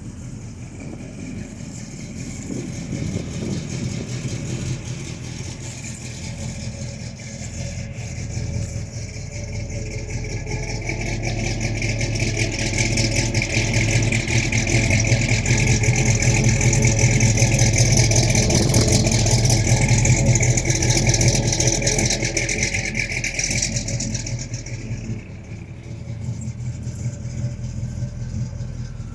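A 455 cubic-inch Pontiac V8 in a modified 1972 Pontiac Ventura II, running with a steady low hum. It grows louder toward the middle and eases back down a few seconds before the end.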